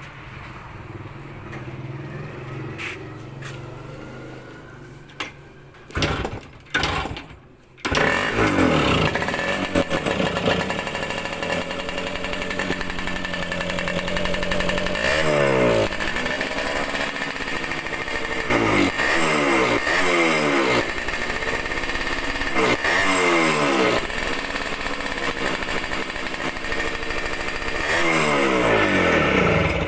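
Yamaha RS100's two-stroke single-cylinder engine firing a few short times, then catching about eight seconds in and running, revved up and back down again and again. The exhaust is blown and leaking.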